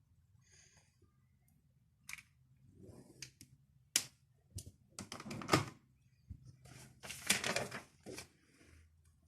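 Desk handling sounds: a string of sharp taps and clicks mixed with short rustles, the loudest clatter about halfway through and a longer rustling stretch near the end.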